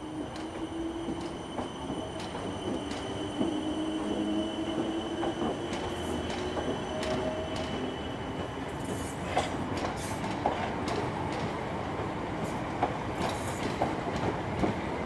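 Electric multiple-unit train running on the track, growing louder over the first few seconds, with a steady whine that fades out about halfway through. Sharp wheel squeals and rail clicks follow through the second half.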